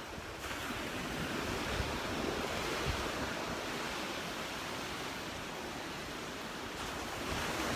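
Gulf of Mexico surf washing onto the beach, a steady rush that swells about half a second in and again near the end, with wind buffeting the microphone.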